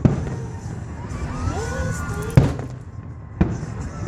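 Aerial fireworks shells bursting: three booms, one at the start, one about two and a half seconds in and a slightly weaker one about a second later, each with a short rumbling tail.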